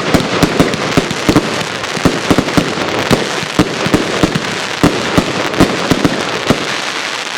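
A fan-shaped consumer fireworks cake (the 1421 Colorful Palm Tree) firing a rapid, irregular volley of shots and bursts over a continuous rushing hiss, dying away near the end.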